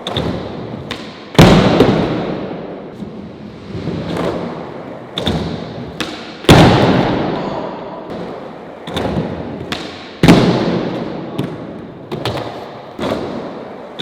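Skateboard trick attempts: sharp pops and clacks of the board, with three loud board slaps on the ground, each followed by the rumble of the wheels rolling away and fading.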